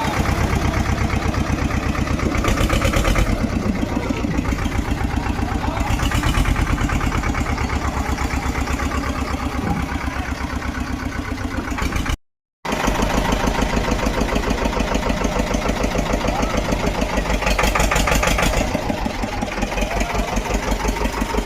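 Tractor engine running with a steady, fast firing beat, rising briefly in a few louder stretches. The sound drops out for a moment about twelve seconds in.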